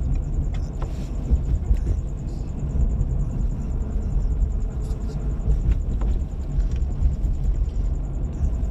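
Four-wheel-drive vehicle driving on the freeway, heard from inside: a steady low rumble of road and engine noise.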